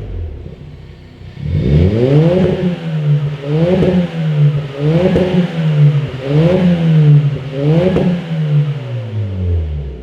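Suzuki Swift Sport ZC33S's 1.4-litre turbocharged four-cylinder running through a BLITZ Nur-Spec F-Ti full-titanium exhaust, blipped from idle in five quick revs about a second and a half apart, each rising and falling back, then settling to idle near the end.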